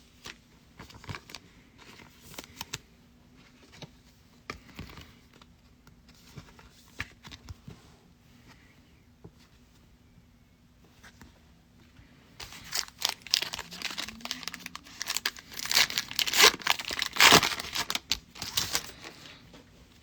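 Foil trading-card pack wrapper being handled, torn open and crumpled: scattered light rustles and clicks at first, then loud crinkling and tearing for several seconds in the second half.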